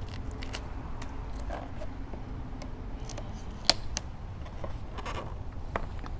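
Vinyl wrap film being peeled by hand off a motorcycle body panel, its adhesive crackling and ticking as it lets go, with one sharper snap a little past halfway.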